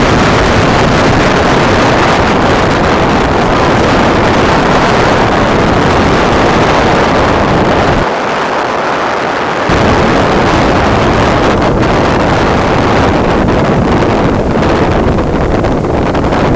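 Wind buffeting the microphone, a loud steady rumble that eases briefly about halfway through.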